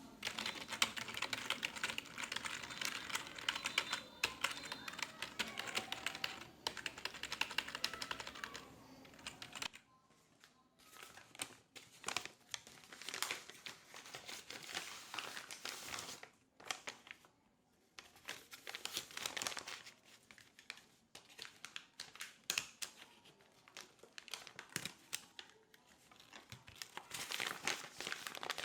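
Typing on a computer keyboard, a fast run of key clicks for about the first ten seconds, then in shorter, sparser bursts.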